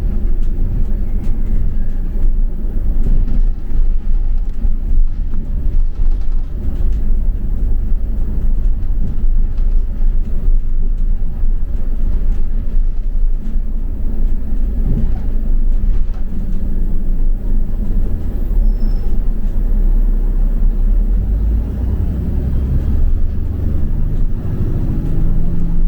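Double-decker bus running along the road, heard as a steady low rumble of engine and road noise. Near the end an engine note comes up over the rumble.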